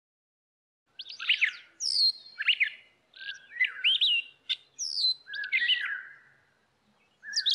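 Birds chirping and twittering: a quick string of short whistled calls that sweep up and down in pitch, starting about a second in.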